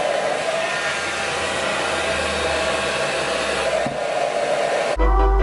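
FHI Heat Technique handheld hair dryer running steadily, blowing hot air through hair wrapped on a round brush. About five seconds in it cuts off abruptly and keyboard music starts.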